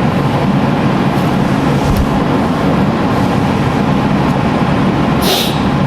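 Steady, loud rushing noise with a low hum, and a short hiss a little after five seconds in.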